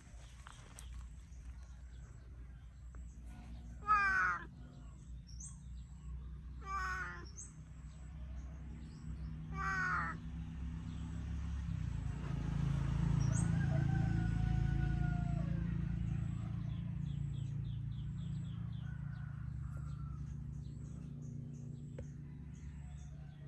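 A cat meowing three times, short calls about three seconds apart, the first the loudest. A low rumble swells and fades near the middle.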